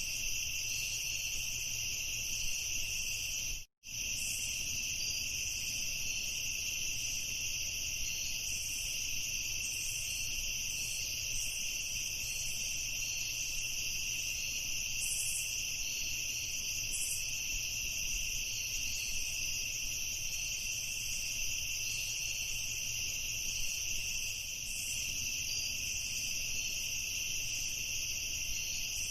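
A chorus of night crickets trilling steadily and high-pitched, with a brief cut to silence about four seconds in.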